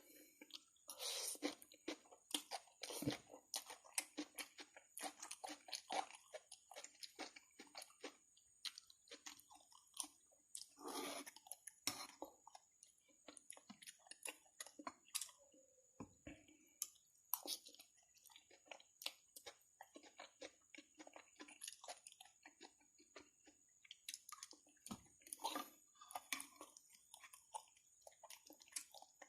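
Close-miked chewing of spicy instant noodles: irregular wet mouth clicks and smacks, a few a second, with a few longer noisy stretches about a second in and around eleven seconds.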